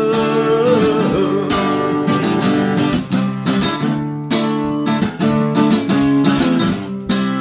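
Acoustic guitar strumming chords through an instrumental break in a country song, with a held sung note trailing off in the first second.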